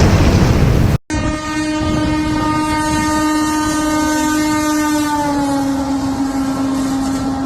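A loud burst of noise cuts off abruptly about a second in. Then a train horn sounds, one long steady blast whose pitch drops slightly a little past the middle.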